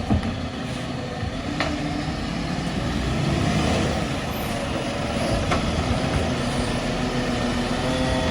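Garbage truck's engine running steadily, swelling a little about three seconds in, with a few sharp clanks.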